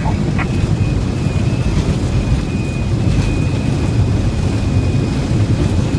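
Boeing 737-500 heard from the cockpit on the landing rollout: a loud, steady rumble of the CFM56 engines in reverse thrust and the wheels on the runway, with a thin steady high tone joining about half a second in.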